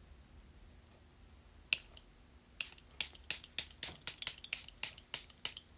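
Makeup setting spray being pumped from a pump-mist bottle: a quick run of about fifteen short spritzes, starting about a second and a half in and coming faster near the end.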